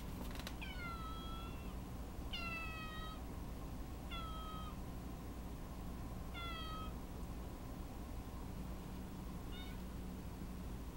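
Elderly domestic cat meowing five times, each meow sliding slightly down in pitch, the last one short, near the end. A couple of sharp clicks sound just at the start, over a steady low hum.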